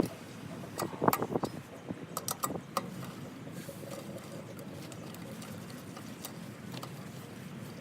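Four-way cross lug wrench working lug nuts off a truck wheel: a cluster of sharp metal clicks and clinks in the first few seconds, then only faint handling sounds.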